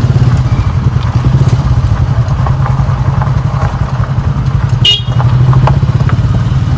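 Motorbike engine running steadily while riding. A short, high-pitched beep sounds about five seconds in.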